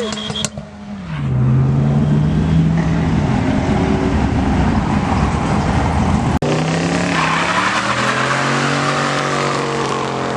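Car engine revving up and down hard while the tyres skid and squeal, a car being spun in donuts. The sound cuts out for an instant about six seconds in, then the revving resumes.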